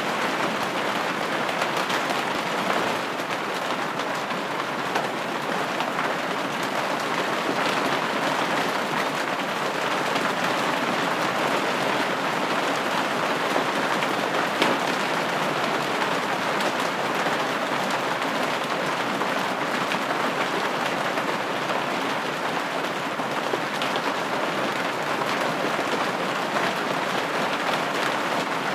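Steady rain falling on a window, an even hiss with many small drops ticking against the glass.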